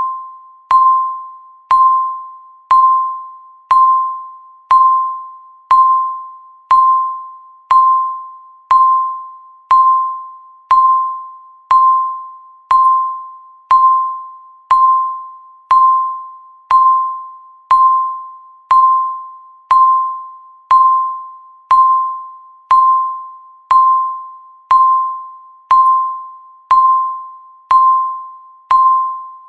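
Countdown timer beeping once a second: a short electronic tone near 1 kHz that starts sharply and dies away before the next one.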